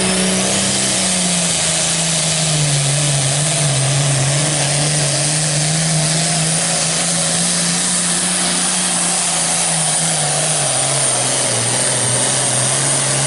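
Hot stock pulling tractor's turbocharged diesel engine running hard under load through a pull: a loud, steady drone with a thin high whine above it, its pitch sagging slightly a few times.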